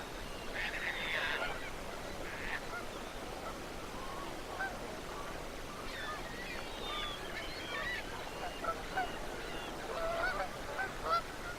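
A flock of geese honking, many short calls overlapping. A brief rushing noise comes about a second in.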